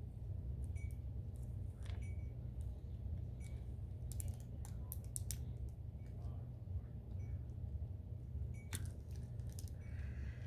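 Faint handling noises: scattered small clicks and taps as thin bendable wire legs are worked into a soft air-dry clay bird, over a steady low hum.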